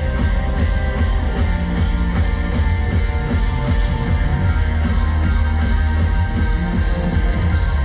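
Live rock band playing loudly: electric guitars over heavy bass and drums, steady throughout.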